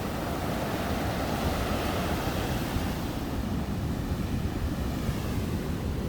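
Sea waves breaking and washing onto the shore: a steady rush of surf that swells during the first half and eases off after that.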